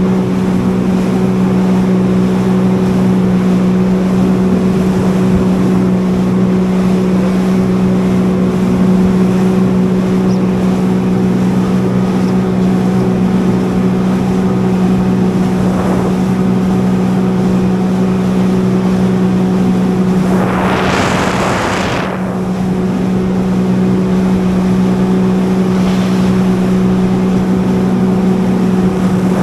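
Jet ski engine running at a steady cruising speed, a constant drone. About twenty seconds in, a brief rush of noise comes over it for a second or two as the engine note dips a little.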